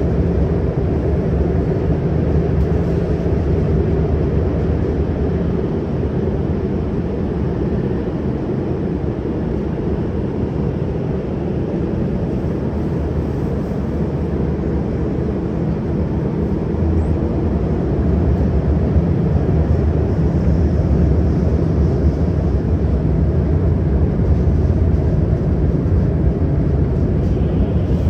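CRRC Qingdao Sifang Type A metro train running at speed between stations, a steady low rumble of wheels on rail and traction equipment that gets slightly louder about two-thirds of the way through.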